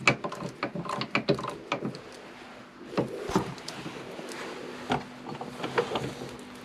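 Wood and metal workshop parts handled and knocked together as a glued wooden blank is fitted into place for the lathe chuck: a quick run of clicks and knocks in the first two seconds, then a few scattered knocks.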